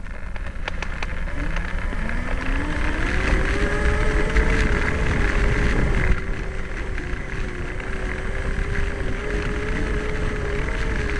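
A vehicle's motor speeding up with a rising whine during the first few seconds, then running at a steady pitch, over a low rumble of wind and rough ground.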